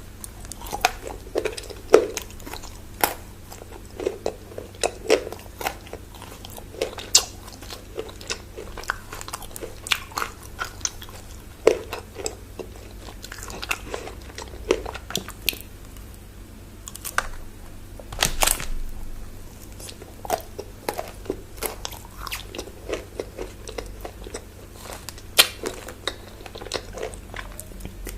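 Close-miked biting and chewing of chocolate bars, with crisp irregular crunches and wet mouth sounds. There is a longer, louder crunch about two-thirds of the way through.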